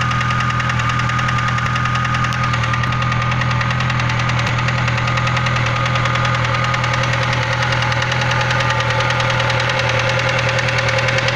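VAZ classic (Lada) engine running with a fast, steady knock. The knock came back after the connecting-rod bearings were replaced: the title calls it a connecting-rod knock, the owner's conclusion is that the crankshaft needs regrinding, and in the video he is unsure and also wonders about a rocker.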